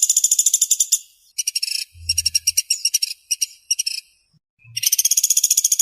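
Pelatuk sampit (pelatuk beras) woodpecker calling in fast, tightly packed trills of sharp, high notes, about fifteen a second. The trills come in bursts of a second or so, with a short pause about a second in and a longer one near four seconds.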